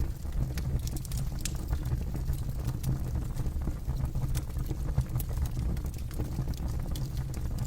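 Campfire burning: a low steady rumble of flame under frequent, irregular sharp crackles and pops from the burning wood.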